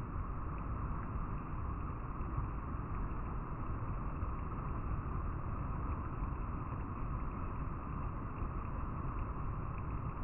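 River water flowing over rocks, a steady rushing noise with a deep rumble underneath.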